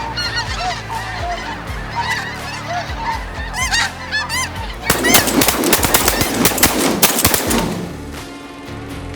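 Flock of snow geese honking, many overlapping high calls. About five seconds in, a dense burst of loud sharp cracks lasts under three seconds, typical of several shotguns fired in a volley at the incoming geese.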